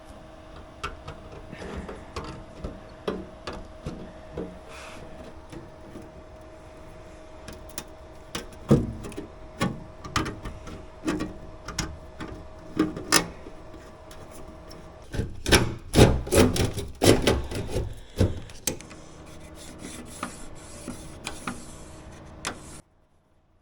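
Metal of a Hale pet door being scored with a hand blade: repeated short scraping strokes, with a denser, louder run of scrapes and knocks about two thirds of the way through. A faint steady hum sits underneath until about then, and the scraping stops suddenly just before the end.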